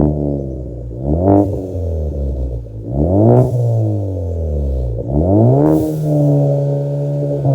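2016 Ford Fusion with a custom exhaust being revved: three quick blips, the engine pitch rising sharply and falling back about two seconds apart, settling to a lower steady note near the end.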